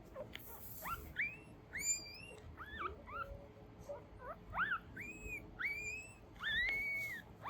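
Newborn mame-shiba puppies squeaking and whimpering: a rapid string of short, high-pitched cries that rise and then fall, some overlapping.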